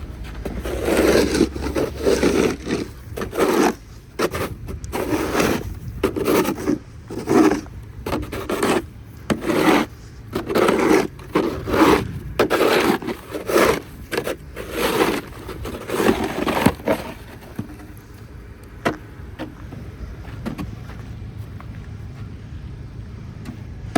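Snow shovel scraping through snow, a run of about twenty quick, uneven strokes that stops about three-quarters of the way through, leaving a faint low hum.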